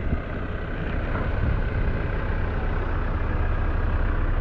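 Van engine idling, a steady low rumble.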